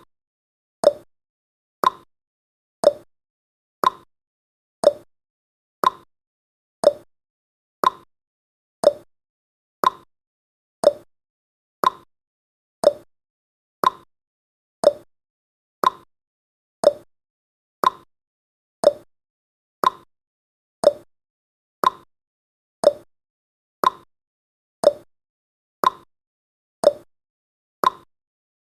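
Countdown timer's tick sound effect, one short tick every second with near silence between.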